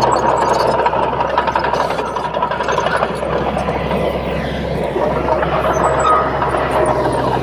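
Crawler bulldozer's diesel engine running steadily, with a faint whine that slides lower in pitch in the second half.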